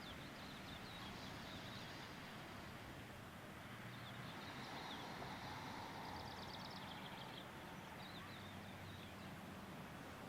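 Faint birds chirping, with a short rapid trill in the middle, over a steady low background hum.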